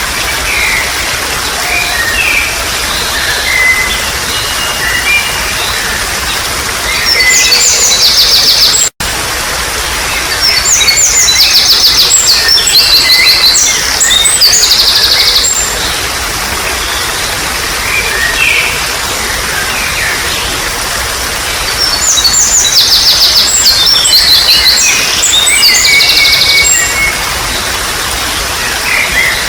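Water trickling steadily under birdsong: scattered short chirps, with loud, fast trilled phrases about eight seconds in, from about eleven to fifteen seconds, and again from about twenty-two to twenty-seven seconds. The sound cuts out for a split second about nine seconds in.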